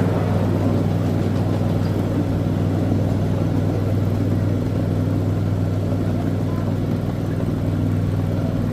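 Gasoline engine of a ride-on miniature train running at a steady pitch, driving the hydraulics that turn the wheels.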